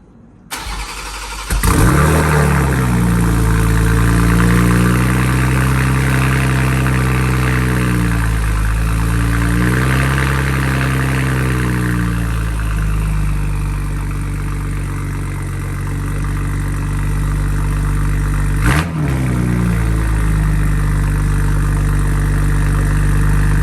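First start-up of a BMW M240i's turbocharged inline-six through a new titanium exhaust: the starter cranks briefly and the engine catches about a second and a half in. It settles into a fast idle that sags twice, then drops to a steadier, lower idle. A single short, sharp noise comes about nineteen seconds in.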